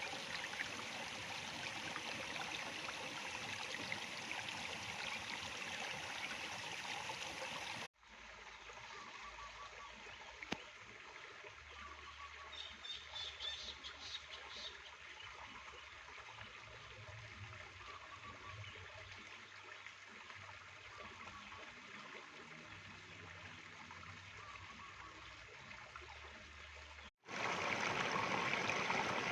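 A stream flowing and trickling. About eight seconds in, the sound cuts abruptly to a quieter stretch of running water with faint short bird calls repeating about once a second and a brief high twittering partway through. Near the end it cuts back to the louder stream.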